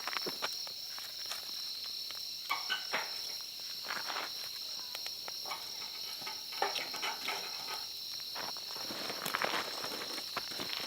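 Steady, high-pitched chirring of an insect chorus, with irregular rustling and light crunching of someone moving about close by.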